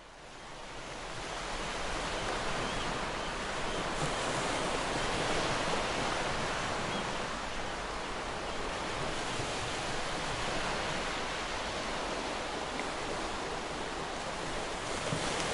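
Ocean surf washing onto a beach as a steady rushing wash of noise, fading in over the first couple of seconds.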